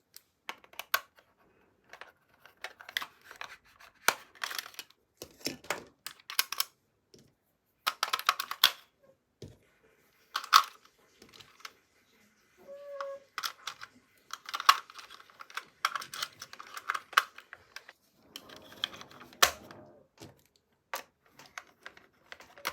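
Plastic toy parts and packaging being handled, giving irregular clusters of small clicks and taps. A short pitched tone sounds about thirteen seconds in.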